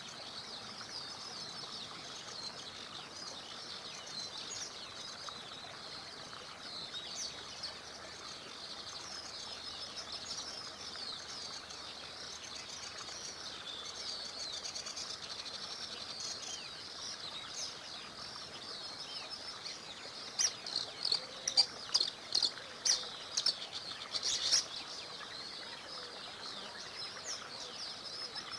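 A chorus of small songbirds chirping and singing continuously over a faint murmur of a small stream. About two-thirds of the way in, a bird close by gives a few seconds of loud, sharp, clipped notes.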